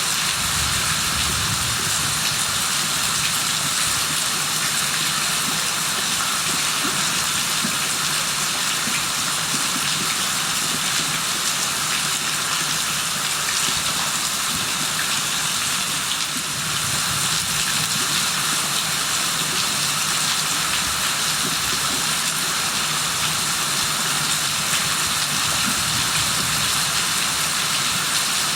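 Rain falling steadily: an even hiss with fine pattering of drops that does not let up.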